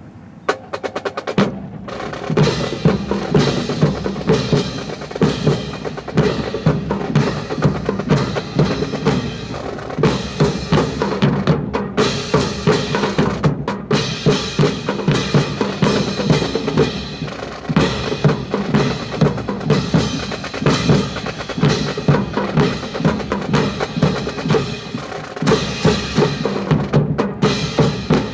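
Marching snare and bass drums playing a fast, driving cadence. The drumming starts about a second and a half in and carries on with only brief breaks.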